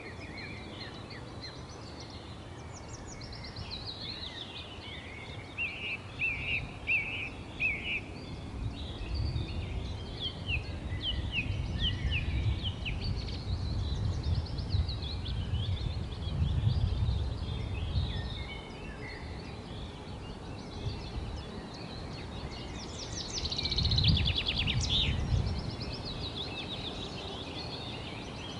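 Several birds chirping and trilling together in overlapping short, quick calls, with a fast trill about three quarters of the way through. Under them, a low rumble swells in the middle and again near the end.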